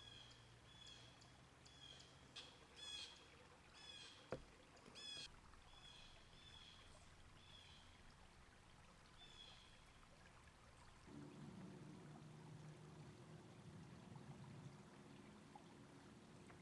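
Faint woodland quiet with a bird repeating a short call about once or twice a second for the first nine seconds or so. There is one sharp tick about four seconds in, and a faint low hum comes in after about eleven seconds.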